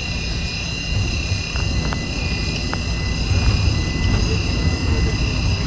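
Inside a moving battery-electric double-decker bus: several steady high-pitched whining tones over a low road rumble, with a few faint ticks in the first half.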